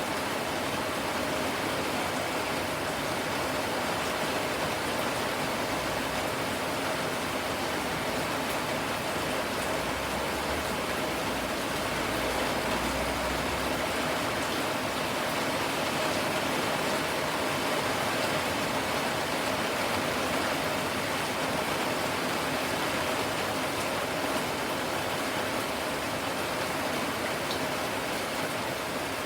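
Steady rain falling, a continuous even hiss of drops with no distinct pattering.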